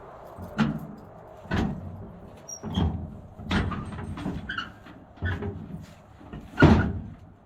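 A series of about seven knocks and clunks at uneven intervals, the loudest near the end, as gear is handled and set down while being loaded into a chicken tractor shed.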